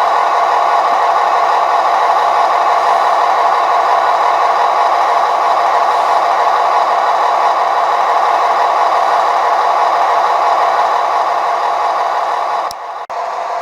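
OO scale model locomotive running along the track, a steady whirring and rattling from its motor and wheels on the rails. A sharp click near the end, then a brief drop in the sound before it picks up again.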